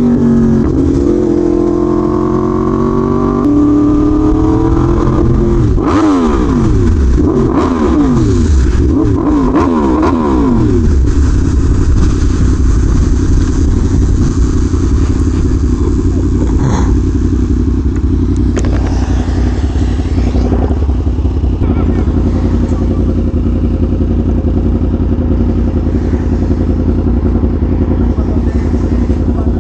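Yamaha R1M's crossplane inline-four engine running under way: the engine pitch rises and falls through the first few seconds, drops in several quick falling sweeps as the bike slows, then settles into a steady low running note.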